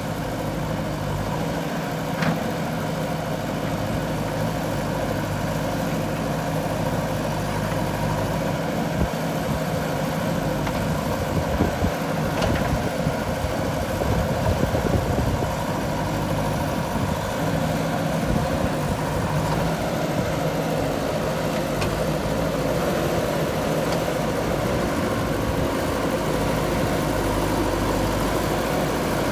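JCB 3DX backhoe loader's diesel engine running steadily, with a few brief clanks along the way.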